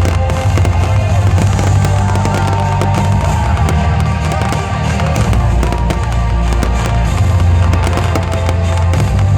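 Fireworks display going off in rapid, irregular pops and bangs, with music carrying a heavy, steady bass playing alongside.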